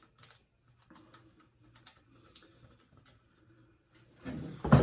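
Faint, scattered light clicks and taps of a chainsaw's bar and chain parts being handled and fitted, then a louder knock and rustle near the end.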